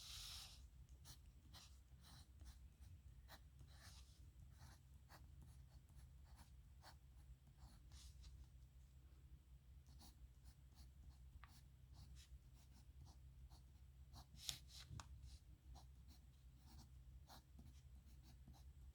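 Pen nib scratching faintly on paper in many short, separate strokes, with one louder stroke about fourteen seconds in.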